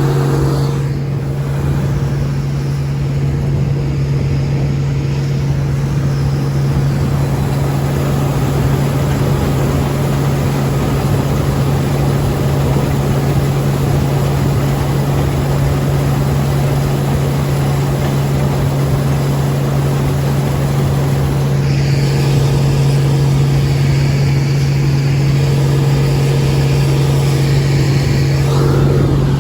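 Case IH 1680 combine running steadily while straight-cutting barley with a 30-foot rigid header: an even machine drone with a constant low hum.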